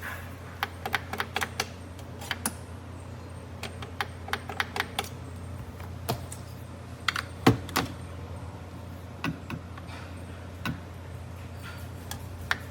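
Irregular light clicks and knocks, one louder knock past the middle, over a steady low hum.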